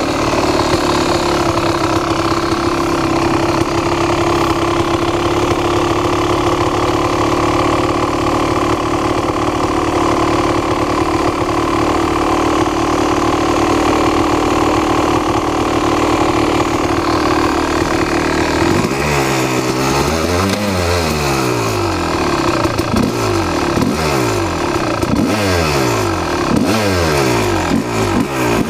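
Kawasaki KX250 two-stroke dirt bike engine running at a steady idle, then revved, once at length about two-thirds of the way through and then in a run of short throttle blips near the end.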